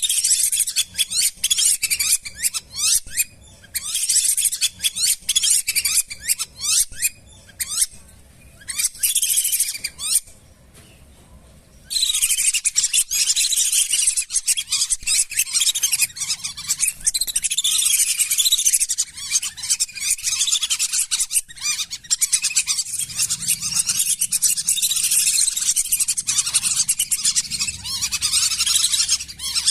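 A flock of lesser whistling ducks giving rapid, high twittering whistles in short bouts. After a brief pause about ten seconds in, the calls run on as a dense continuous chorus.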